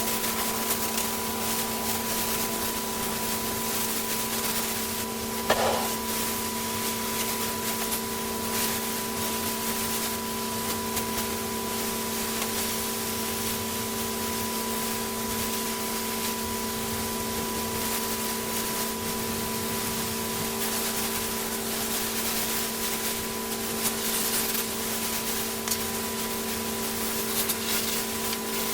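Pressure-washing equipment's engine running at a steady speed after revving up just before, with the hiss of water spraying.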